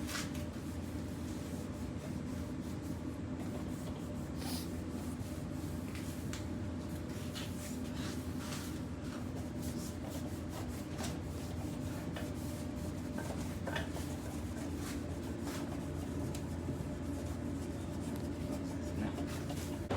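Steady low mechanical hum with scattered rubbing and scraping sounds from hands and tools working on a belt conveyor being taken apart for cleaning.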